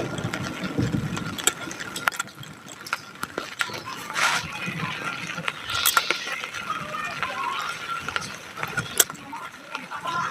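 Rain falling, with scattered sharp drip-like ticks and faint voices in the background.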